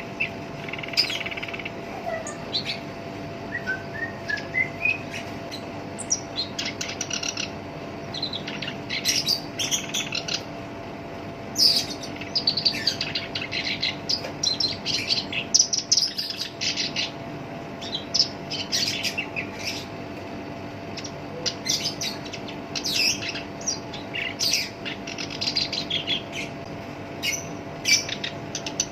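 Black-browed reed warbler singing in rapid, harsh, scratchy chattering phrases, coming in bursts with short pauses. A few seconds in there is a short run of thin rising whistled notes. A faint steady hum runs underneath.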